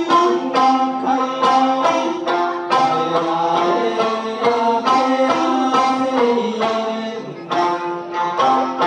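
Okinawan Eisa music: sanshin and singing over steady, evenly spaced drum beats.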